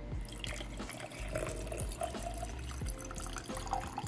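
Water poured in a steady stream into a glass jar of ice cubes, splashing over the ice, the pitch of the filling rising as the jar fills.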